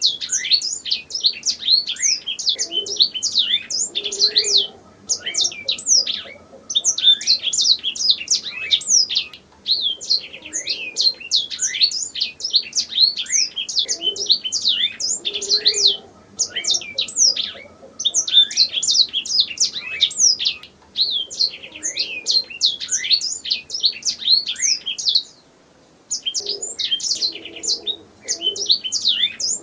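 Domestic canary singing in long, fast phrases of rapid notes that sweep down in pitch, broken by short pauses and one longer pause of about a second near the end.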